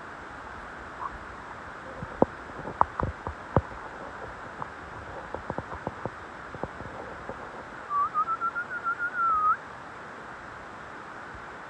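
A run of sharp clicks and knocks over a few seconds, then a single warbling, trilled whistle lasting about a second and a half, over a steady outdoor hiss.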